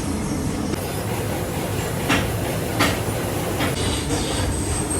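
Workshop machinery running with a steady rumble, with a few sharp metallic clicks.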